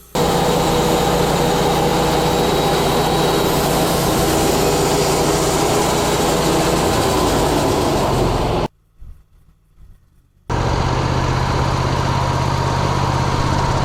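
Wood-Mizer LT40 hydraulic sawmill running steadily, a loud engine hum under a wide hiss. It starts suddenly, cuts out to near silence for about two seconds partway through, then comes straight back.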